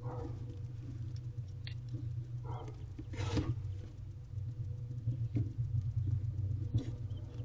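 Barn owl moving inside a wooden nest box: scattered scratches and taps, with one louder rustle about three seconds in, over a steady low hum.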